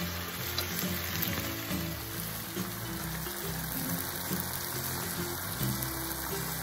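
Tofu skin sizzling as it is stir-fried with chili sauce in a nonstick pan, a steady hiss, with background music.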